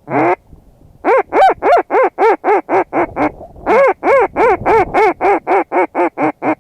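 Mallard hen quacks blown on a duck call. A single quack, then two fast, even runs of about four quacks a second, with a short pause about three and a half seconds in.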